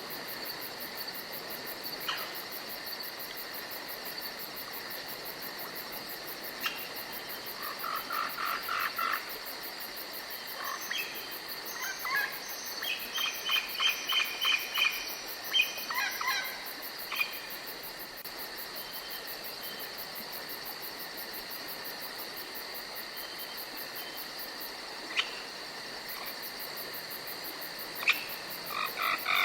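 Nighttime forest ambience: a steady high-pitched insect drone, overlaid by several runs of rapid, repeated animal calls in the middle stretch and again near the end, plus a few isolated sharp clicks.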